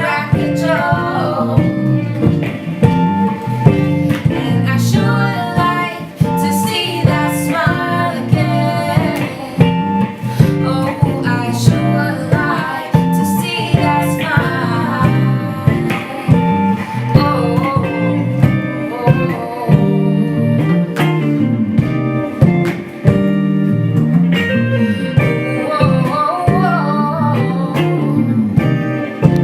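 Live indie soul band playing, guitar to the fore over bass and a steady drum beat, with a wavering melodic line above.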